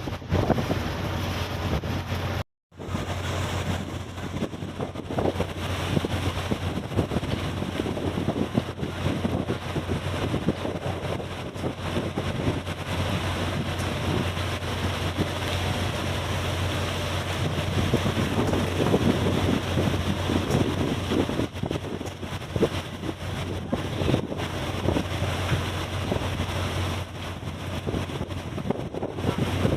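Wind buffeting the microphone over the steady low drone of a ship's engine, with a brief dropout about two and a half seconds in.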